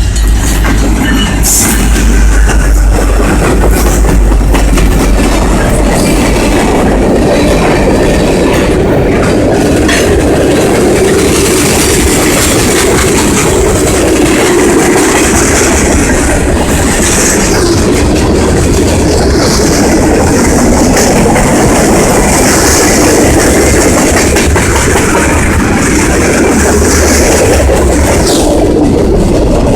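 Canadian National freight train rolling past, a loud, steady rumble of wheels on the rails with a clickety-clack over the joints.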